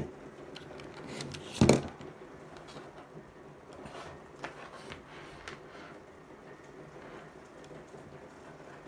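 Small objects being handled on a hard surface: faint clicks and rustles, with one loud knock about one and a half seconds in.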